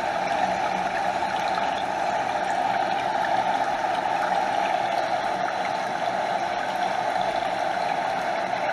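Stream water flowing and gurgling over a small waterfall: a steady, unbroken rush of water.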